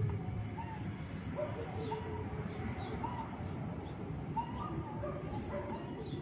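Birds chirping repeatedly in short, pitched notes over a steady low background rumble.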